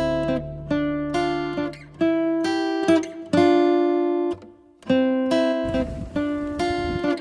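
Acoustic guitar music: chords struck one after another, each left to ring and fade, with a short gap before the next.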